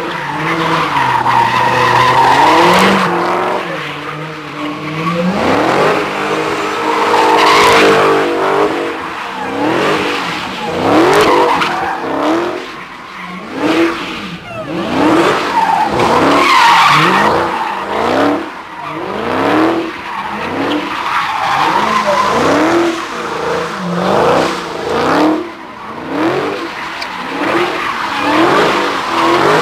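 V8 muscle car doing burnouts and drifting: the engine revs rise over and over, about once a second, over continuous tyre squeal.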